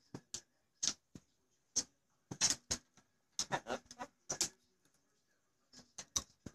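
Pet parrot making a string of short, sharp clicks, irregular and sometimes in quick pairs, with short silences between them.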